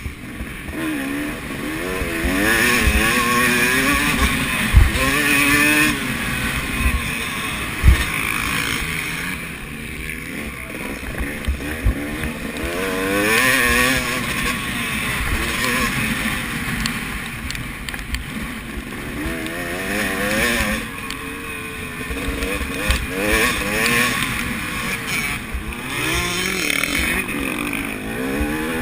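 Several motocross bikes racing, their engines revving up and dropping back again and again as they accelerate, shift and pass. Two sharp knocks stand out about five and eight seconds in.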